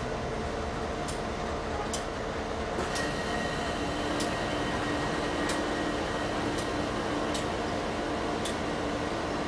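Passenger railcars rolling slowly past, with sharp clicks about once a second as the wheels cross rail joints, over a steady rumble and a faint hum.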